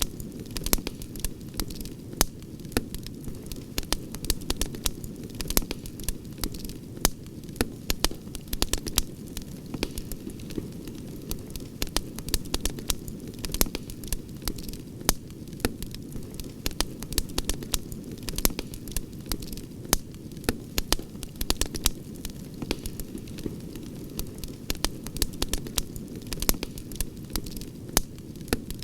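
Campfire crackling, with frequent sharp pops and snaps over a steady low noise of the burning flames.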